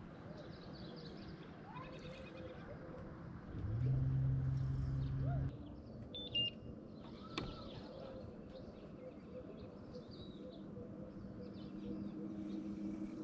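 Small birds chirping on and off over a steady low hum, with a louder low drone lasting about two seconds a few seconds in.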